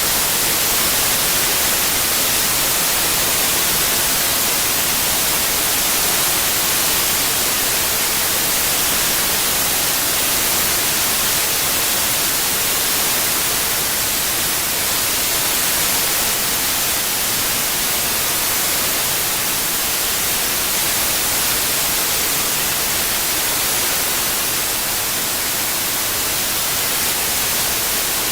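Steady synthetic white noise, an even hiss strongest in the treble, with no changes.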